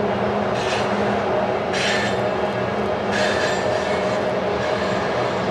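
Diesel locomotives of a coal train running steadily as the train rolls across a rail bridge. Three times a short, high metallic squeal from the wheels rises over the steady drone: about half a second in, near two seconds, and after three seconds.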